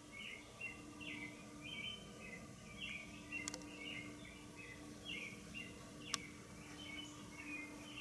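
Faint bird chirping: a continuous, irregular twittering of short high chirps over a low steady hum. Two sharp clicks break in, about three and a half seconds and six seconds in, the second the loudest sound.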